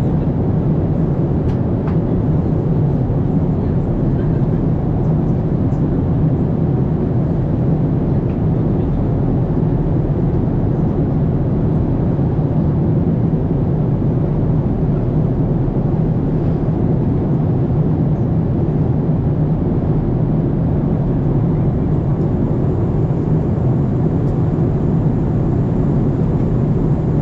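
Steady engine and airflow noise heard inside an aircraft cabin in flight, an even low rumble that does not change.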